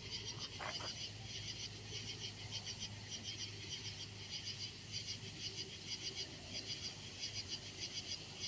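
Faint night chorus of calling insects and frogs: rapid high-pitched pulsed chirps repeating in clusters, over a steady low hum.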